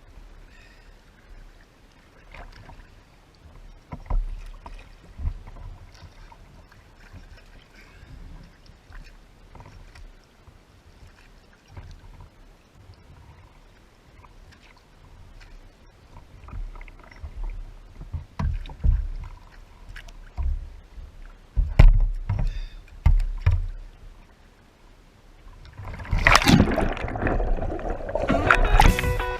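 A kayak out on the river: paddle strokes, water splashing and scattered knocks against the hull, with uneven low thumps. Rock music with guitar comes in about three seconds before the end.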